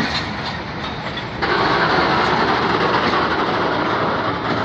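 Passenger express train rolling past on departure, its coaches clattering along the track; about a second and a half in, the rolling noise jumps louder and stays there.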